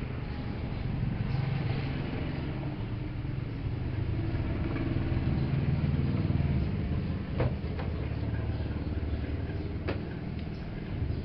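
Steady low motor hum that swells and then eases, with three sharp clicks in the second half.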